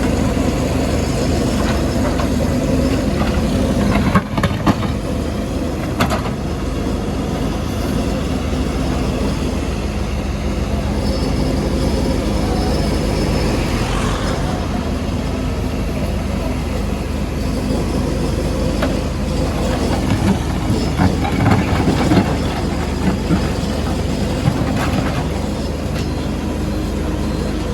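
Diesel engine of a CAT 462F backhoe loader running steadily under work, with a few sharp knocks and a scattering of smaller impacts as the machine breaks up the road surface.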